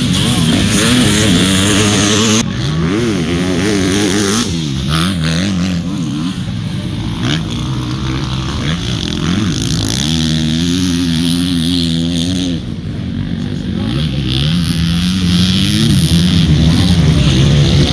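Motocross motorcycle engines revving, the pitch climbing and dropping again and again as the throttle opens and closes. The sound changes abruptly a couple of times.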